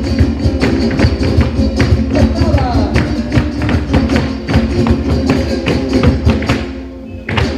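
Live band music: a fast, steady percussion beat over sustained instrument tones. The music drops away briefly near the end, then comes back in.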